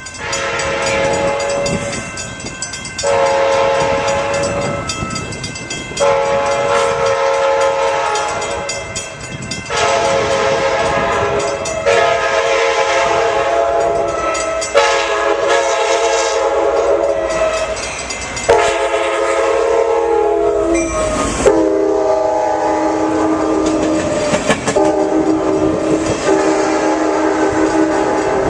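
Passenger train's multi-note air horn sounded again and again in long blasts with short breaks, over the rumble of the train on the rails.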